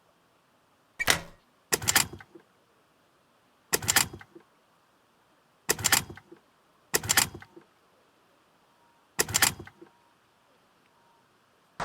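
Six short, sharp clacking knocks at irregular intervals, each a quick cluster of two or three strokes, with quiet in between.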